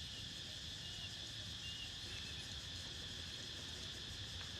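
Steady high-pitched chorus of insects over a low rumble, with a few brief high chirps about one and two seconds in.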